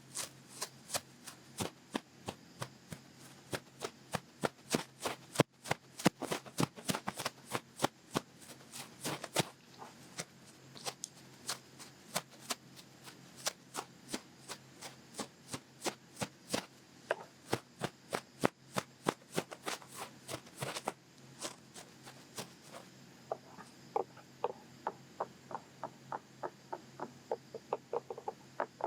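Quick scratchy strokes of a long-fluffed ear pick rubbed in an ear close to the microphone, about three to four strokes a second. From about 23 seconds in, the strokes turn softer and duller.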